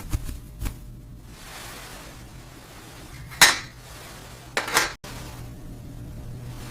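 A few sharp clinks and knocks of small hard objects being handled: faint ones at first, the loudest about three and a half seconds in, and a quick cluster just before five seconds. A low steady hum sits underneath.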